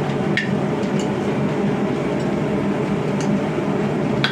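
Forge running with a steady roar, with a few faint metallic clinks about half a second, a second and three seconds in.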